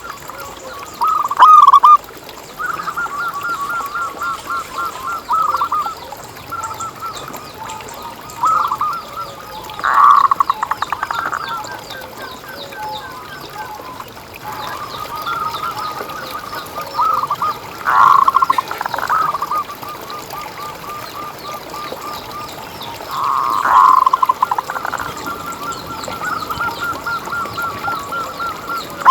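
Zebra dove (perkutut) singing: long trains of rapid, evenly spaced coos at one pitch, broken by several louder bursts of song.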